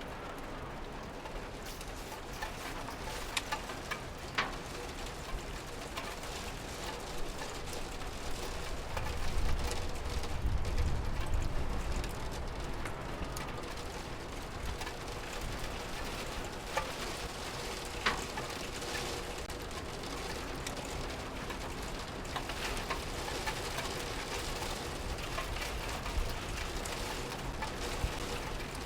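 Steady rain falling, an even patter with scattered louder drips. A low rumble swells about nine seconds in and fades by about twelve seconds.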